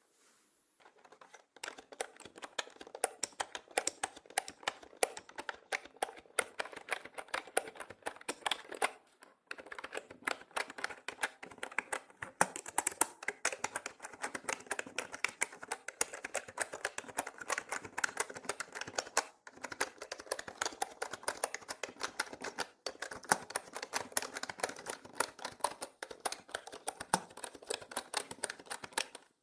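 Mechanical keyboard being typed on continuously, a fast patter of key clicks with brief pauses, the sound panned around the head in 8D audio.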